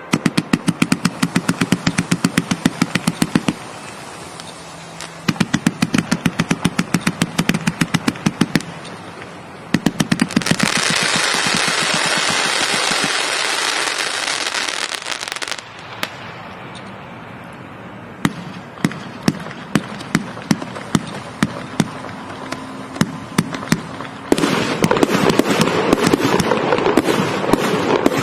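A 238-shot fireworks cake firing. Two quick volleys of rapid shots come first, then a few seconds of dense crackling. Slower single shots follow, about two a second, and near the end it breaks into a dense crackling barrage.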